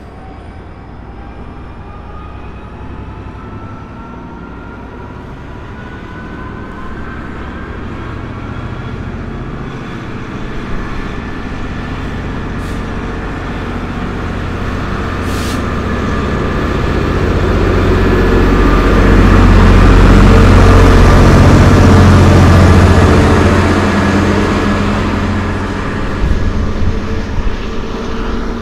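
Diesel freight train approaching and passing: deep engine rumble builds steadily to its loudest about two-thirds through, then eases off, with a faint whine rising slowly in pitch as it nears. A few sharp knocks sound near the end.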